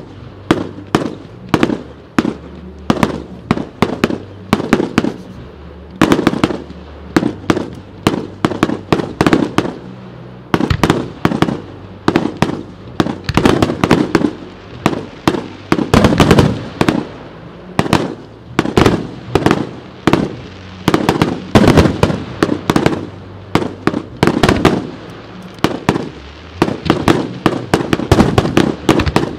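Fireworks display: a rapid, continuous barrage of sharp bangs and cracks, several a second, as shells and comets are fired and burst.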